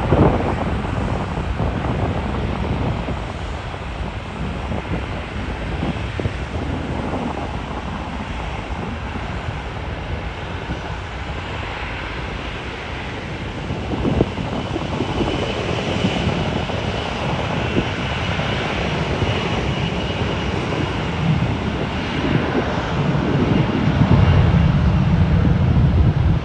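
Jet airliner's engines running as it passes, a steady rumble with a thin high whine partway through. The sound grows louder near the end.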